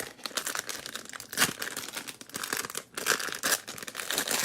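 Baseball card packaging being torn open by hand, with irregular crinkling and crackling of the wrapper and one louder rip about a second and a half in.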